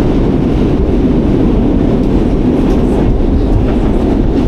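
New York City subway train running on the Q line, a loud steady rumble with a few faint clicks from the wheels and track.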